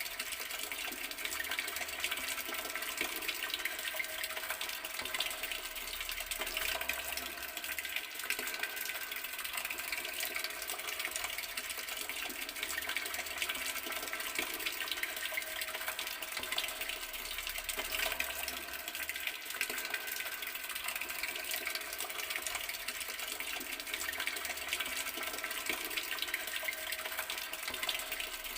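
Water running steadily from an open garden tap, a constant splashing stream without breaks.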